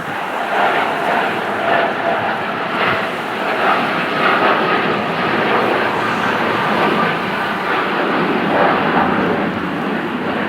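Airliner's jet engines running loud and steady with a faint whine.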